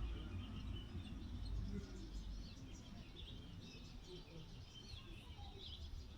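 Small birds chirping and twittering, many short calls, over a low rumble that fades a little after the first two seconds.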